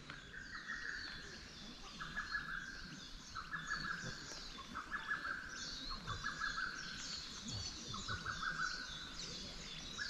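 Woodland birdsong: one bird repeats a short phrase about once a second, over a steady chorus of higher-pitched calls.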